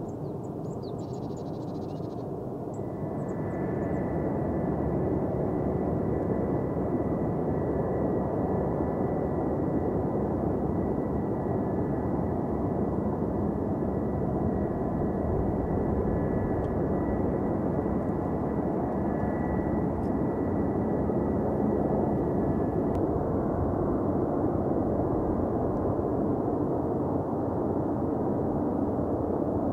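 Jet engines of a Singapore Airlines Airbus A330-300 airliner running: a steady rumble that swells about three seconds in. A steady high whine joins it then and cuts off at about twenty-three seconds.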